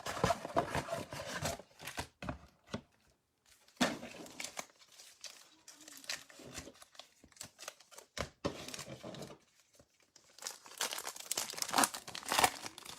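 A trading-card pack's foil wrapper being torn open and crinkled by hand, in irregular bursts with short pauses.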